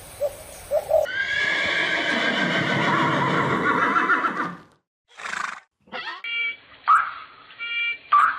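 A horse whinnying: one long, loud neigh lasting about three and a half seconds. After a short gap come a few brief, clipped calls from another animal, most likely a bird.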